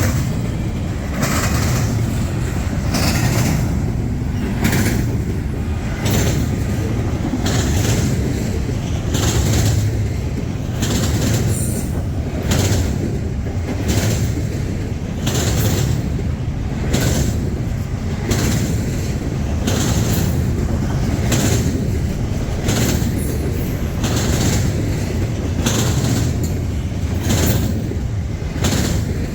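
Freight train rolling past: a steady low rumble of wheels on rail with an even clickety-clack of wheels over rail joints about once a second.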